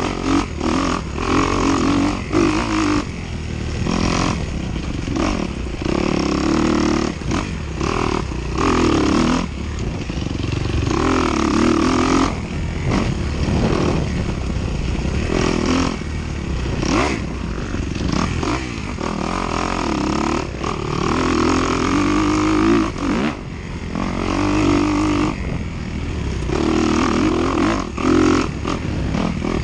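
Dirt bike engine revving hard and backing off over and over, its pitch climbing and falling with the throttle and cutting out in frequent short chops, with brief knocks mixed in.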